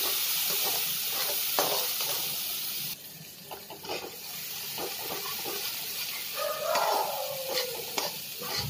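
Turmeric paste sizzling in hot oil in a steel kadhai while a metal spatula stirs and scrapes it round the pan. The sizzle drops off suddenly about three seconds in, leaving quieter frying and scraping strokes.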